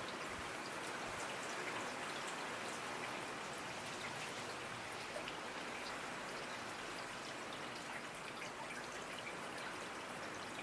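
Steady rainfall: an even hiss of rain with many small drops ticking and pattering on a surface.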